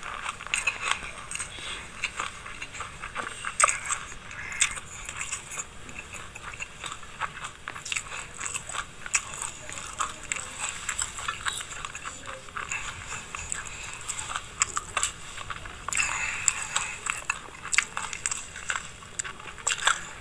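Close-miked chewing of a mouthful of raw sesame seeds mixed with sunflower seeds: dense, irregular crackling crunches.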